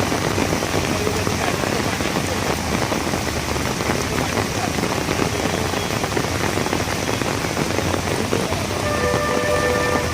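Heavy rain pouring down in a dense, steady hiss, over a low steady hum. A brief steady tone sounds for about a second near the end.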